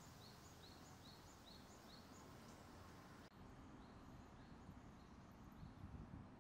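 A small songbird singing faintly, repeating one short high note about two to three times a second, over a low outdoor background hiss.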